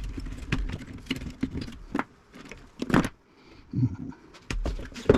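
Irregular clicks, clinks and knocks of hand tools and metal parts being worked on the crowded, hand-wired metal chassis of a 1950s Philco tube radio as components are pried and pulled out.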